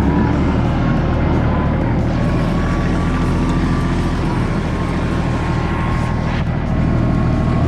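Kubota L3540 tractor's diesel engine running steadily and loudly, with a short knock about six seconds in.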